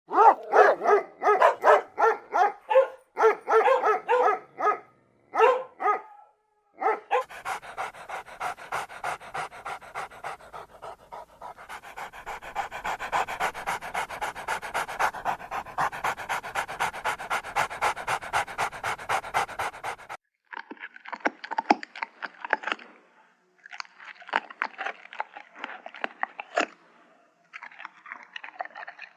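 A dog panting hard in a fast, even rhythm of several breaths a second. The breaths carry a tone and are louder for the first few seconds, and turn softer and more broken after about twenty seconds.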